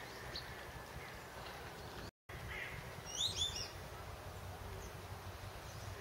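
Birds chirping: a quick cluster of short, high notes that fall in pitch, with a few fainter chirps scattered around, over a steady low outdoor background.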